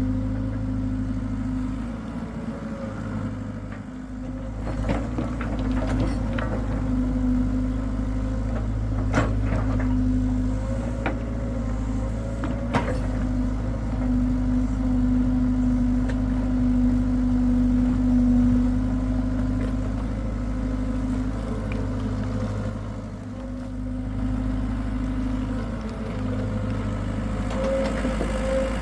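Hitachi excavator's diesel engine running steadily under load, with a steady tone that swells and fades and a few sharp knocks about five to thirteen seconds in.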